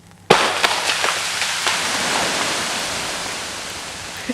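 Ice-coated tree snapping and crashing down under the weight of the ice: a sudden loud crack, then a long rush of breaking, ice-laden branches with a few more cracks, slowly fading.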